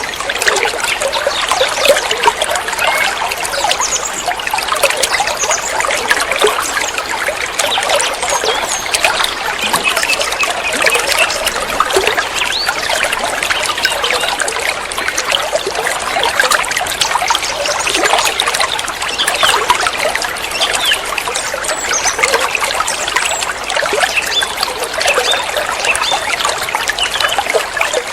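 Water trickling and bubbling steadily, as from a small stream or water feature.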